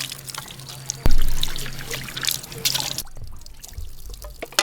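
Water trickling and dripping, with many small ticks and a sudden low thump about a second in.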